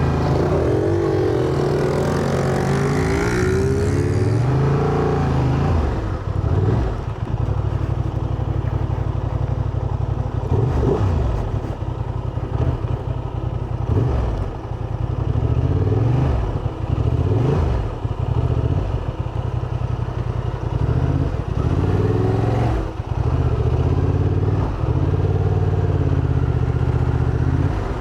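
125 cc single-cylinder motorcycle engine under way, its pitch climbing and then dropping again and again as it accelerates and shifts gear.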